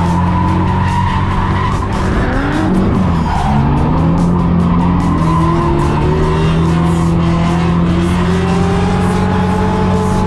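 Drift car engine revving hard, dipping about two to three seconds in and then climbing steadily, with tyre squeal from the car sliding.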